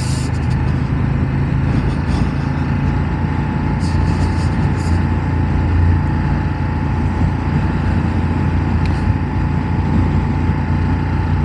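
Ducati Monster 1200's V-twin engine and wind rush, heard from inside a rider's helmet while riding at a steady pace.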